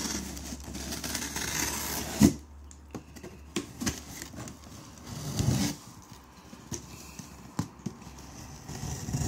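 A cardboard shipping box and its packing being opened and handled: rustling for the first couple of seconds, a sharp knock a little after two seconds in, then scattered clicks and handling noises.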